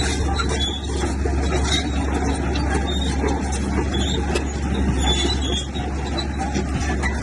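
Diesel engine of heavy earthmoving machinery running steadily, with a deep, unbroken low rumble.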